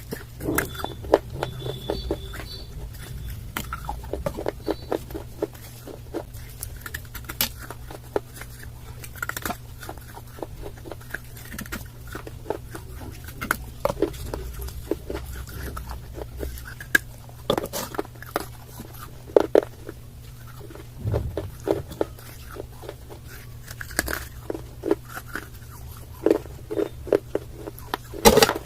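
Close-up biting and chewing of hard, dry clay: irregular sharp crunches and crackles, over a steady low hum.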